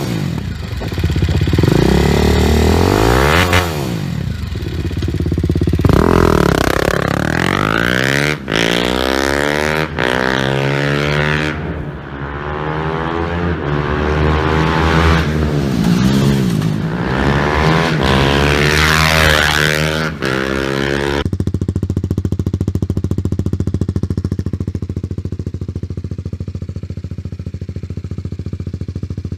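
BMW G310GS single-cylinder motorcycle engine on a Yoshimura full exhaust, revved repeatedly with rising and falling pitch. About 21 seconds in it switches abruptly to the same bike on an MIVV full exhaust, idling with a steady, even beat.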